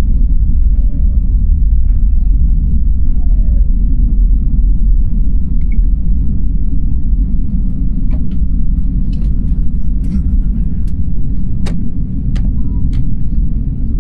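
Airliner engines heard from inside the passenger cabin as a steady, loud low rumble, with a few faint clicks in the second half.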